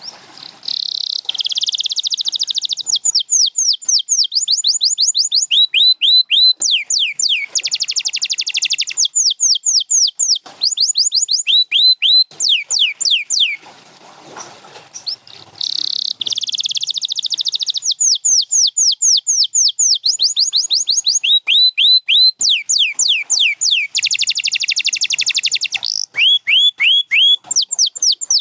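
Canary singing: a long song made of rapid trills and runs of repeated downward-sweeping whistles, each phrase repeated several times before the next. The song breaks off about halfway through and then starts again with a similar run of phrases.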